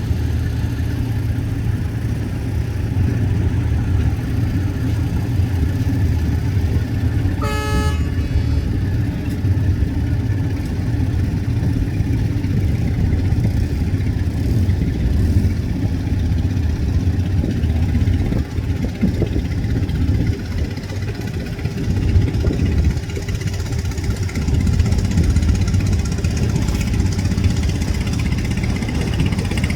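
Fast passenger boat's engines running steadily with a low drone, and one short horn blast about a quarter of the way in.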